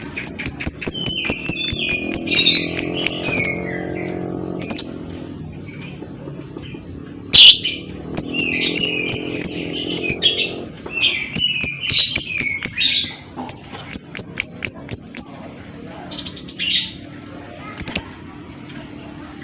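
Lovebird calling in rapid runs of sharp, high chirps, about three or four a second, mixed with lower warbling chatter. The calling comes in bursts broken by short pauses.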